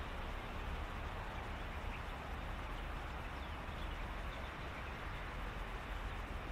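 Steady outdoor ambience by reeds: an even hiss with a low rumble underneath, and a few faint short calls from birds or other animals.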